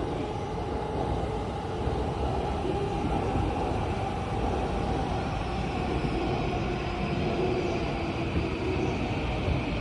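E257 series electric multiple unit pulling away from the platform: steady rumble of wheels and running gear, with a motor whine that rises slowly in pitch as the train gathers speed.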